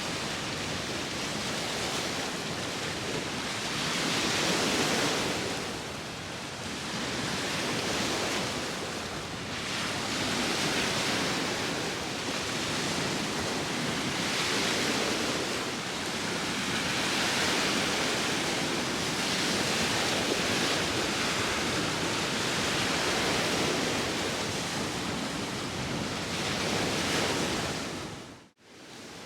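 Sea waves washing onto the shore with wind, a steady rush that swells and eases every few seconds as waves come in. Near the end the sound drops out for a moment, then resumes.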